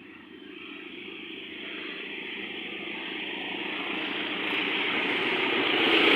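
Diesel locomotive hauling a passenger train as it approaches, its engine and running noise growing steadily louder.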